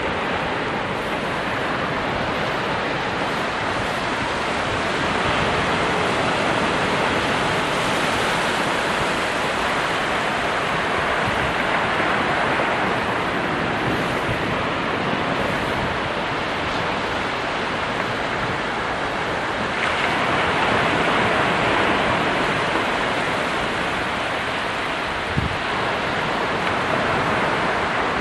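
Ocean surf washing continuously in a steady rush, swelling a little as larger waves come in, with one brief tick near the end.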